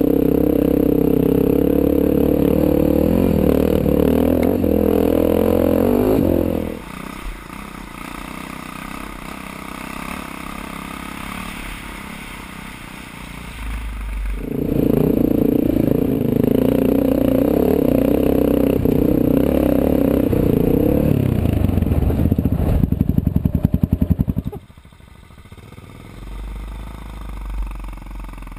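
KTM 640E's single-cylinder four-stroke engine running under throttle on a rough dirt trail. It drops away after about six seconds and picks up again about halfway through. Near the end it chugs, then falls to a low idle as the bike slows.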